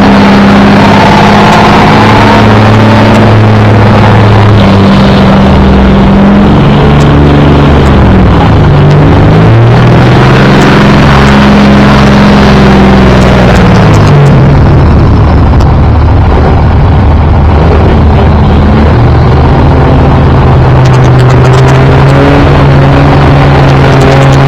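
Street-class diesel truck engine running hard under load while pulling a weight sled, very loud throughout; its pitch drops and climbs again several times.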